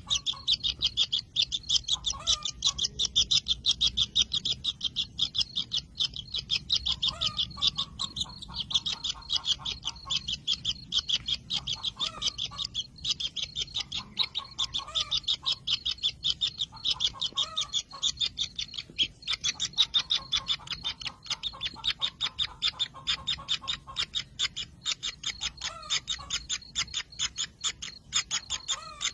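Kingfisher nestlings in their nest burrow calling nonstop: a rapid, steady stream of high-pitched chirps, several a second, with a lower call repeating every two to three seconds.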